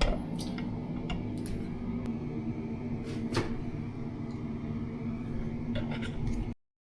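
A steady low hum with several light clicks and taps, cutting off abruptly near the end.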